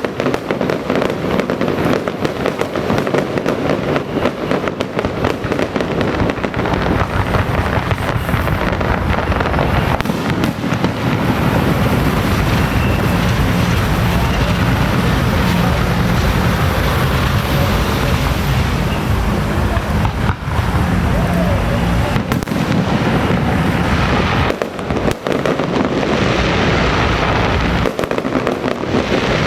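Dense, continuous crackle of firecracker bangs going off in rapid succession without a break, with a few short dips near the end.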